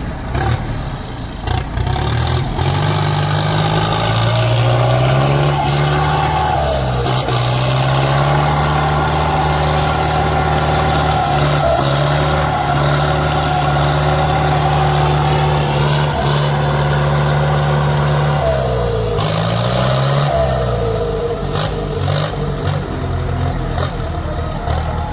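Heavy diesel engine revving up about two seconds in and held at high revs under load, then wavering and dropping back near the end.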